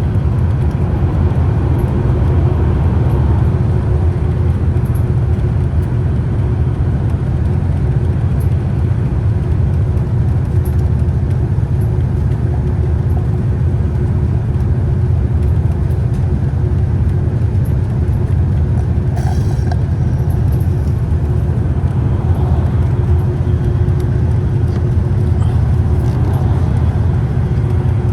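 Scania Citywide city bus under way, its engine and drivetrain making a steady, loud low rumble with a constant hum. A brief higher noise cuts in about two-thirds of the way through.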